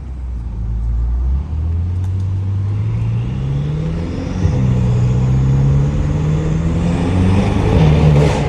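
Catless BMW M5 twin-turbo V8 accelerating under load. Engine pitch climbs, drops at an upshift about four and a half seconds in, and climbs again. A rising turbo hiss runs alongside, and a burst of rushing air comes near the end.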